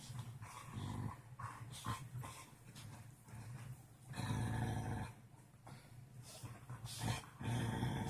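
A dog growling in play while teasing another dog, in several rough low rumbles, the longest lasting about a second.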